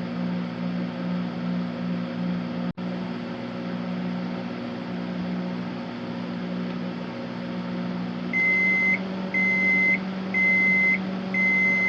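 A 1989 microwave oven running with a steady hum. Near the end it gives four beeps about a second apart over the hum, signalling the end of its timed cooking cycle.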